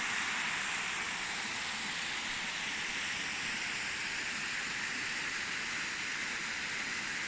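A waterfall: a steady, even rush of falling water with no breaks.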